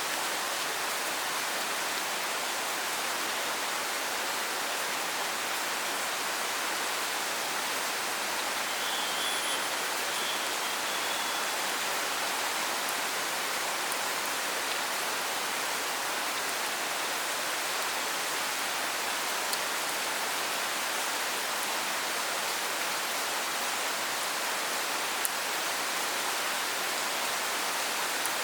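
Steady rain falling, an even hiss of drops on surfaces. About nine seconds in there is a brief faint high chirp, and later a single small tick.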